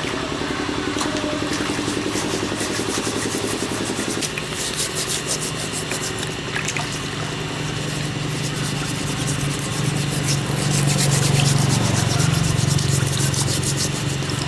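A motor running steadily, with a rapid rasping, sanding-like scrape over it from about four seconds in; the motor's hum gets louder near the end.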